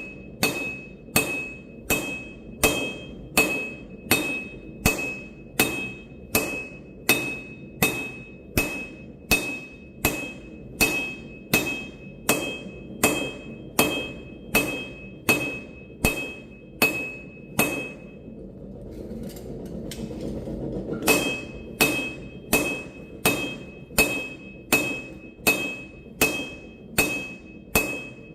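Steady forging hammer blows on an anvil, about two a second, each with a ringing metallic tone. The blows pause for a couple of seconds past the middle while a rushing noise swells, then resume at the same pace.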